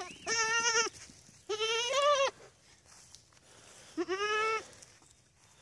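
A goat bleating three times, each call under a second long with a wavering, quavering pitch.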